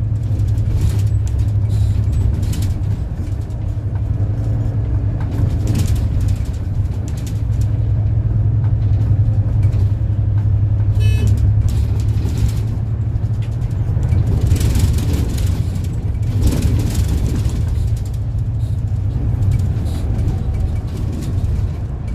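City bus heard from inside the cabin while driving: a steady low engine and drivetrain rumble with scattered knocks and rattles from the body. A brief high-pitched tone sounds about eleven seconds in.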